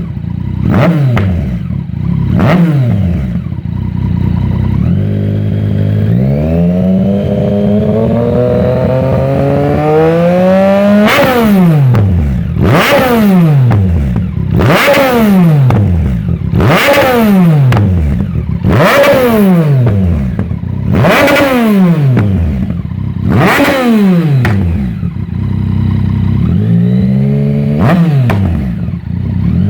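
Yamaha MT-09's inline three-cylinder engine through an aftermarket decat full exhaust system, being free-revved while standing: a few short blips, one long slow climb to high revs, then a run of about seven sharp revs roughly two seconds apart, each dropping back to idle, and a final shorter rise near the end.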